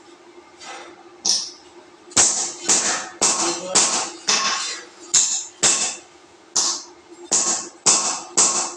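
Metal being struck repeatedly, about a dozen sharp blows at roughly two a second, each with a short bright ring, over a faint steady hum.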